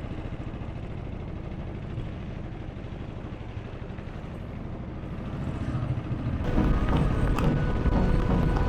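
Motorcycle engine running steadily while riding, a fast low pulsing with road and wind noise. About six and a half seconds in, background music comes in and grows louder over it.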